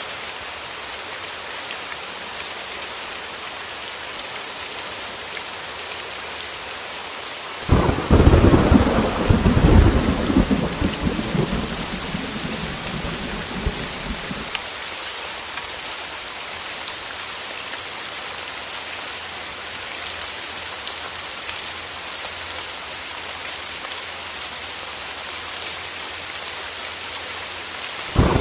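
Heavy rain hissing steadily on a window, with a clap of thunder about eight seconds in that rumbles low and dies away over some six seconds.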